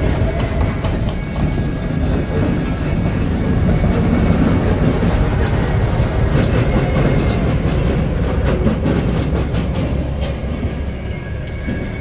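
Passenger train rolling past at low speed, its steel wheels clicking over the rail joints. A Union Pacific diesel switcher locomotive at the rear goes by in the middle, and the sound tapers off near the end as the train clears.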